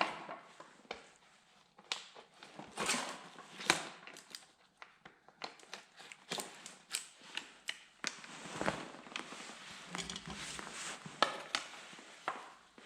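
Plastic pit-bike body panels being handled while screws are fitted: irregular clicks, scrapes and crinkling of hard plastic.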